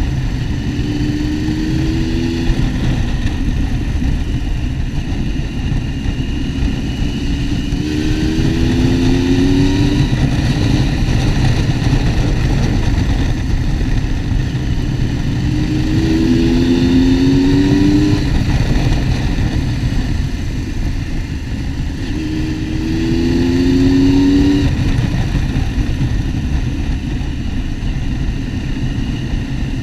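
Motorcycle engine accelerating, its pitch rising four times, roughly every seven seconds, over a steady rush of wind and road noise.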